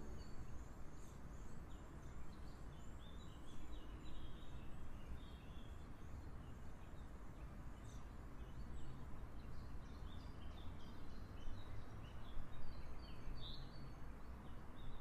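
Small birds chirping and singing on and off over a steady low outdoor background noise.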